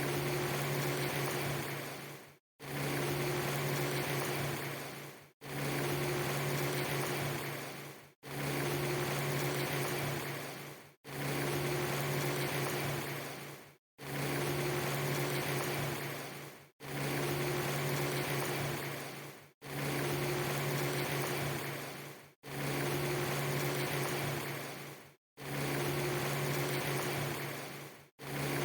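Steady rushing noise with a low hum under it, a loop under three seconds long that fades slightly and then cuts to silence for a moment before starting again, about ten times over.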